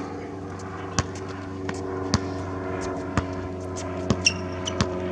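A basketball bouncing on an outdoor court: sharp, uneven bounces about a second apart, a quicker run of them about four seconds in, with a brief high squeak among them. A steady engine-like hum runs underneath.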